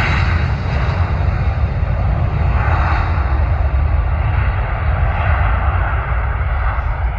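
Airbus A330 jet airliner departing, its engines making a loud, deep, steady rumble; the hissing upper part of the sound slowly fades as the jet moves away.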